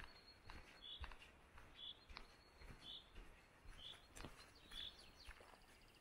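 Faint open-country ambience: a bird repeating a short high call about once a second, with soft footsteps underneath.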